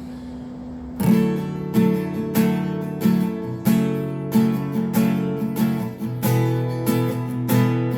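Acoustic guitar strummed in a steady rhythm, beginning about a second in, playing the song's intro before the vocals come in.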